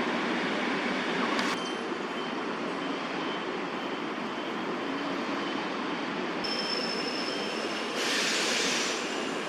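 Steady rumbling background noise of distant traffic, with a brief brighter hiss about eight seconds in.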